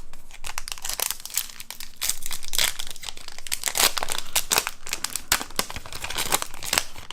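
Foil Yu-Gi-Oh! booster pack wrapper crinkling and tearing as the pack is opened and handled: a dense, irregular run of crackles.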